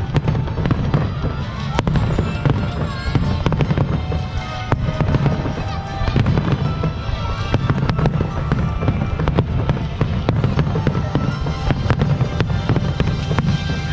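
Fireworks display: a rapid, unbroken run of bangs and crackles over a deep rumble, with music playing underneath.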